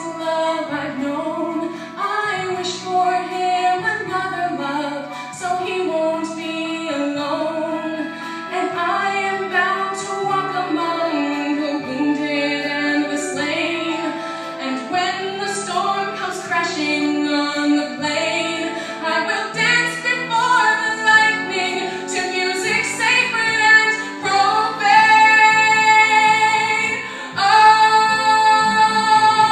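A solo female voice singing a musical-theatre ballad over instrumental accompaniment, holding two long notes near the end.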